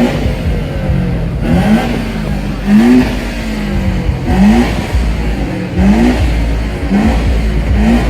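Car engine revved in short, repeated blips, each a quick rising pitch, about every second and a half over a heavy low rumble.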